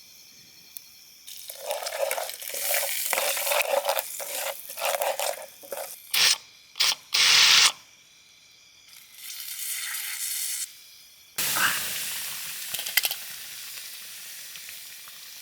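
Whole spices and chillies frying in hot oil for a tadka, sizzling after a short pause, with several sharp hissing bursts midway. A louder sizzle starts suddenly near the end and slowly dies down.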